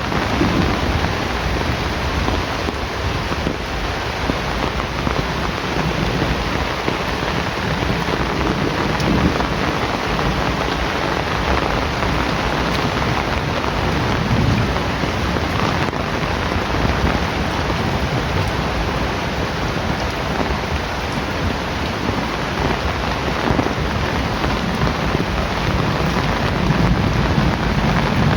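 Heavy rain falling steadily, with low rumbles of thunder swelling a few times underneath.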